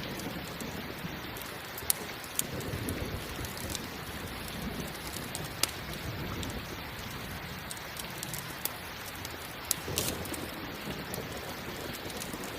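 Steady rain with a few sharp pops from a crackling campfire, and low rumbles of thunder swelling now and then.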